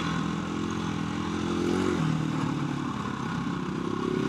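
KTM 350 EXC-F dirt bike's single-cylinder four-stroke engine running under way on the trail, its pitch shifting about halfway through as the throttle changes.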